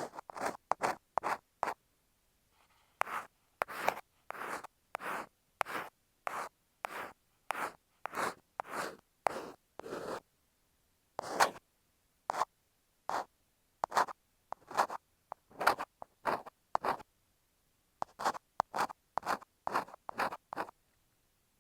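Ear pick scraping and rubbing against an earphone microphone in a run of short strokes, one or two a second, with dead silence between strokes and a few pauses of about a second.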